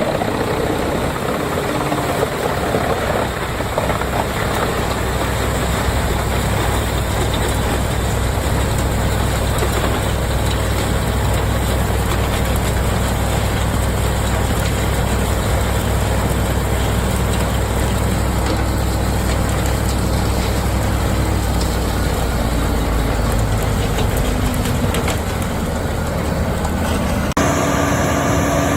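Heavy wood chipper engine running steadily, with a dense mechanical churn over a low hum. The sound changes abruptly near the end.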